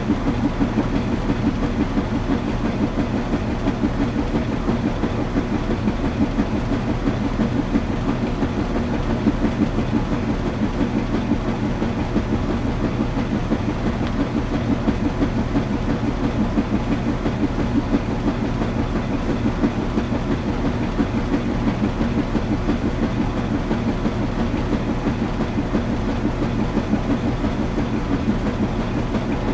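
Washing machine running, a steady low rumble with a fine rapid flutter and no breaks or changes.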